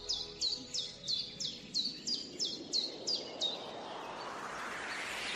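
A bird calling over and over, about three times a second: each call a high whistled note that drops sharply in pitch. The calls stop about three and a half seconds in, and a hiss swells steadily in their place.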